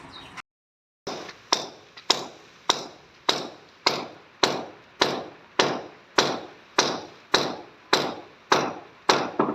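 Steady, evenly paced hammer blows, about one every 0.6 seconds, each striking sharply and ringing briefly; the blows start about a second in.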